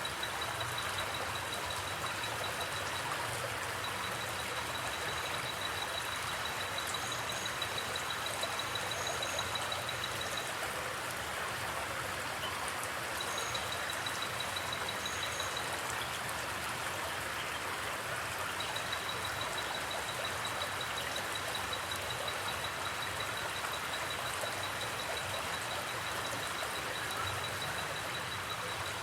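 Forest creek flowing, a steady even rush of water. A high, rapidly pulsing trill comes and goes over it several times.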